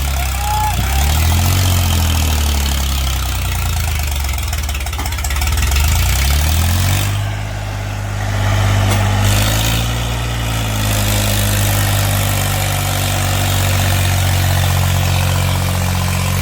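Heavy diesel machine engine running, its speed rising and falling over the first several seconds, then settling to a steady run.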